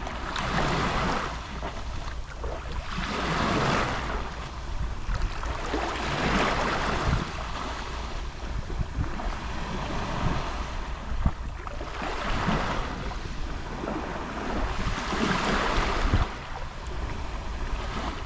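Gentle Mediterranean sea waves lapping on the shore, each small wash swelling and fading every few seconds.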